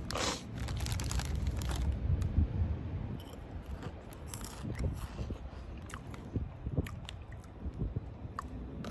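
A person chewing and crunching street corn Cheetos, crisp puffed corn snacks, with a denser stretch of crunching in the first couple of seconds and then scattered crunches.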